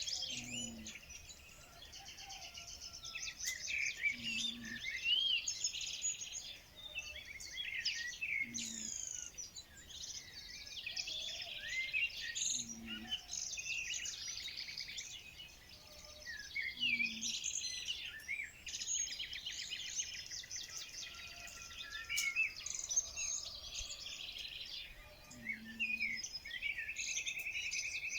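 Many songbirds singing and calling at once, a dense chorus of chirps, whistles and fast trills, with a low short call repeating about every four seconds.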